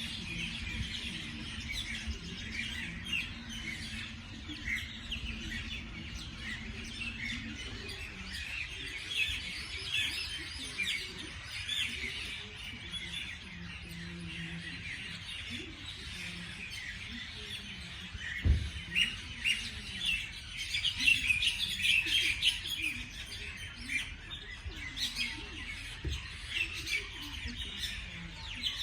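A chorus of small birds chirping over one another, many short high chirps with no pause, busiest about twenty seconds in. A low hum sits underneath for the first several seconds, and there is a single dull thump a little past the middle.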